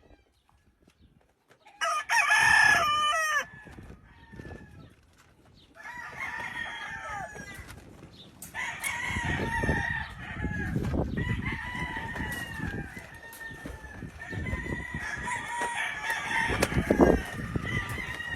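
Several gamefowl roosters crowing. One close, loud crow comes about two seconds in, then from about six seconds on many crows overlap continuously.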